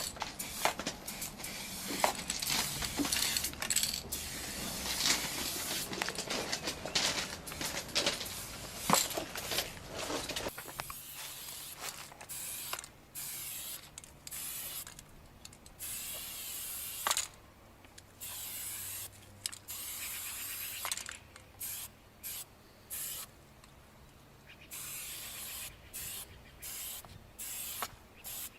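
Aerosol spray paint cans hissing in short, repeated bursts with brief gaps between them. Many sharp clicks and knocks are mixed into the first ten seconds or so.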